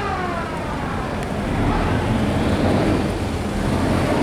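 Boat engines running steadily under a broad rushing noise of water and wind. A siren-like horn tone falls away and fades in the first half-second.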